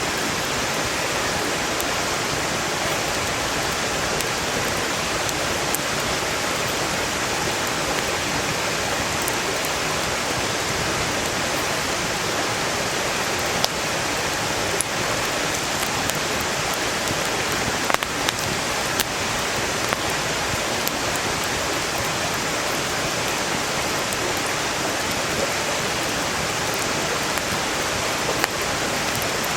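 A valley stream rushing loudly and steadily, with the occasional sharp crackle of burning firewood, a few of them scattered through.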